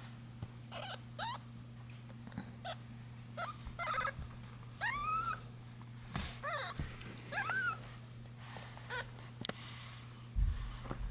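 Three-day-old kittens mewing: a series of about ten short, high, squeaky mews, some rising then falling in pitch, over a steady low hum. A low bump comes near the end.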